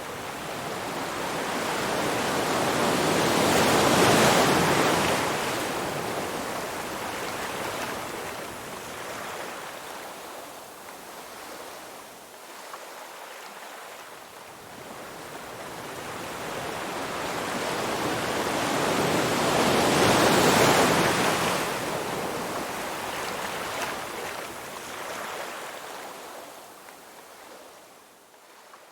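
Ocean surf: two waves, each building to a peak and then washing out, about sixteen seconds apart.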